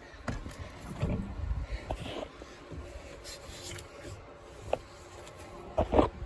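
Rubbing and handling noise with scattered light knocks, and one louder knock near the end.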